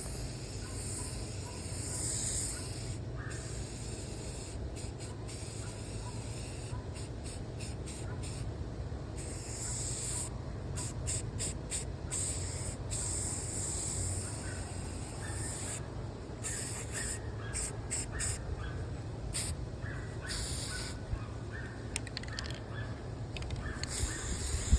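Aerosol spray-paint can spraying in bursts: a hiss that starts and stops many times, some sprays lasting a couple of seconds and others only brief puffs, as a first coat of paint goes on.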